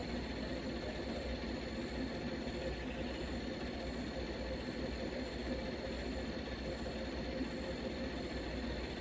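Heavy vehicle engine running steadily at idle, with no change in pace.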